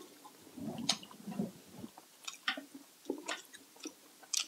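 People chewing food close to the microphone, with wet mouth clicks and smacks at irregular intervals.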